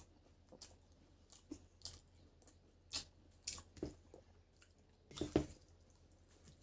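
Close-miked chewing and wet mouth sounds of someone eating, in scattered short smacks and clicks, with a louder cluster about five seconds in.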